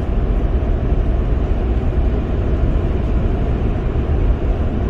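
Car driving at speed, heard from inside the cabin: a steady low rumble of tyres and road noise.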